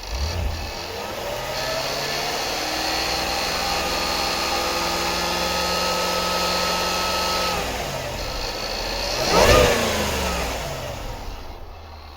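Jaguar F-Pace SVR's supercharged V8 revved up and held at raised revs for several seconds, dropping back about seven seconds in, then blipped sharply once about nine seconds in before settling toward idle.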